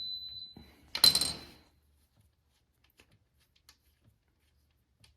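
Metal hand tool clinking twice, each hit ringing briefly with a high tone; the second, about a second in, is the louder. A few faint ticks follow.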